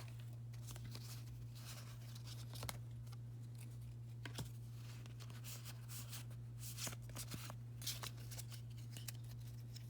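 Faint rustles and light ticks of freshly opened Pokémon trading cards being handled and slid apart, over a steady low hum.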